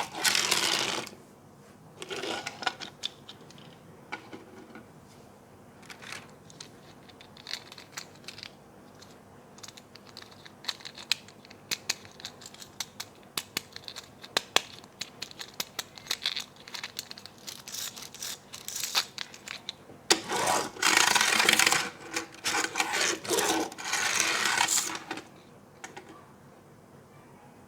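Toy packaging being handled and opened: scattered light plastic clicks and taps, with a longer stretch of loud rustling and tearing of packaging about three-quarters of the way through.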